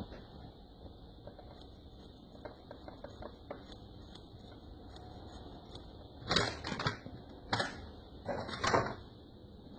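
Rustling and clattering of ingredients and utensils being handled during food preparation, in three louder bouts in the second half, over a faint steady high hiss.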